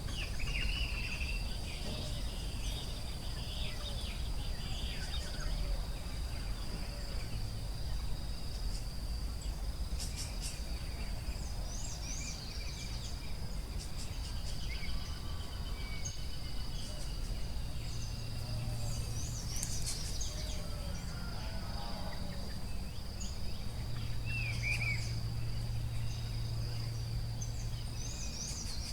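Forest ambience: a steady high-pitched insect drone, like crickets or cicadas, over a low rumble, with scattered short bird chirps and calls throughout.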